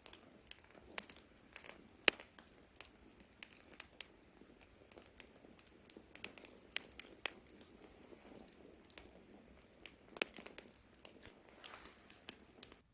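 Wood campfire burning, crackling with irregular sharp pops and snaps over a faint, soft noise of the flames.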